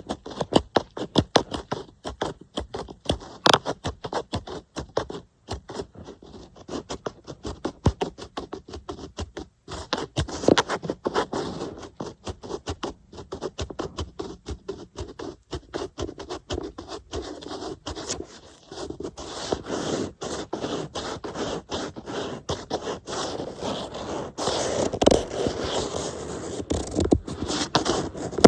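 Rapid tapping and scratching on an iPad, close to the microphone, a quick run of short strokes that grows fuller and louder near the end.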